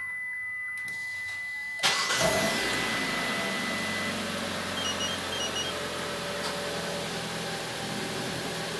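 Kia Sportage engine started by the newly installed StarLine alarm's remote start: it cranks and catches suddenly about two seconds in, then idles steadily. A steady high tone sounds through the first few seconds.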